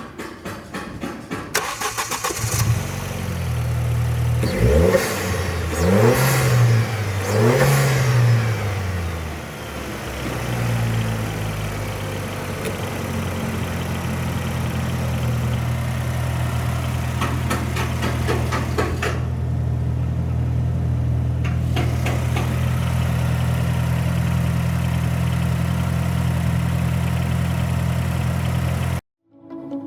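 2017 Ford Focus engine cranked over by the starter, catching about two and a half seconds in. It is revved up and back down three times, then settles into a steady idle until it cuts off suddenly near the end.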